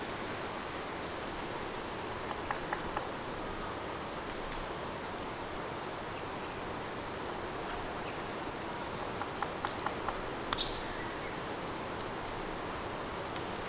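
Steady rain, with faint high chirps of birds or insects and a few light ticks, clustered about a third of the way in and again near two thirds.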